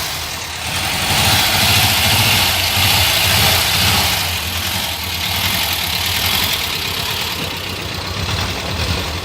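A motor running steadily: a low, even hum under a loud hiss.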